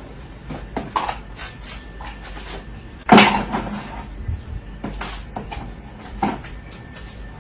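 Scattered light clicks and knocks of objects being handled, with one loud knock about three seconds in.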